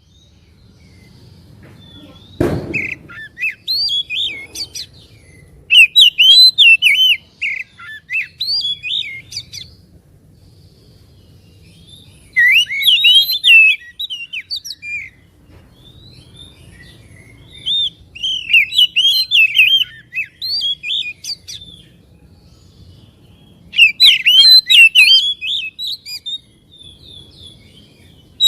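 Oriental magpie-robin singing in bursts of fast, varied whistles and chirps, each phrase a few seconds long with pauses of a few seconds between. A single dull thump sounds about two and a half seconds in.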